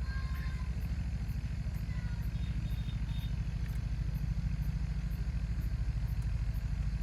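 Microtek EB 900 inverter running on battery power after repair, its transformer giving a steady low hum with a fast flutter.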